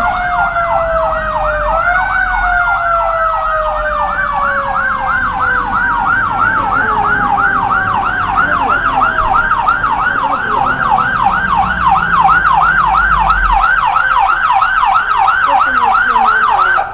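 Emergency vehicle siren on a fast yelp, warbling up and down about three times a second, with a second steady tone sliding slowly down in pitch. It cuts off suddenly at the end.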